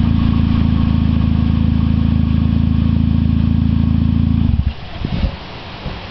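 2008 Mitsubishi Lancer's four-cylinder engine idling steadily through a Tsudo cat-back exhaust, a deep even tone, which cuts off suddenly about four and a half seconds in, leaving faint wind and rustling.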